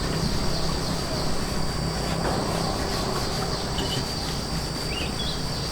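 Outdoor rural ambience: insects keep up a steady high-pitched drone, with a few short bird chirps over a low rumbling background.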